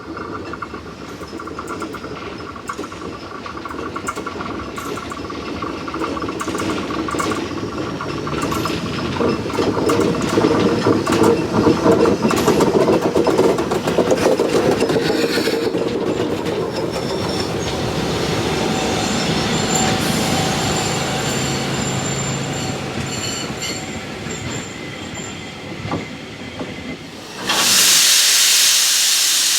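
Steam train of the SJ 1916 locomotive rolling along the track: wheels clicking over rail joints, growing louder and then easing off as it passes. Near the end a loud hiss of steam sets in.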